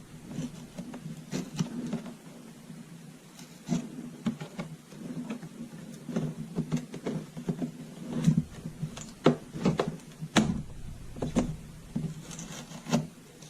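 Plastic parts of an ultrasonic humidifier being handled and fitted together: irregular clicks, knocks and rubbing, over a steady low hum.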